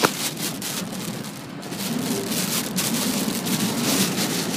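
Heavy typhoon rain pelting a moving car, heard from inside, coming in waves that swell and ease, over steady road noise. A sharp click right at the start.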